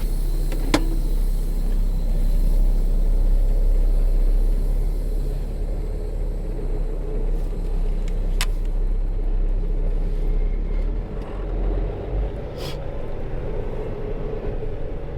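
Semi truck's diesel engine running steadily at low speed, a low rumble, with a few sharp clicks over it.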